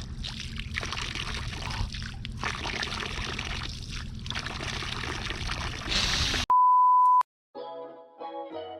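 A continuous rushing noise over a low hum, cut off abruptly about six and a half seconds in by a loud, steady, single-pitch beep of under a second. Piano music begins just after it.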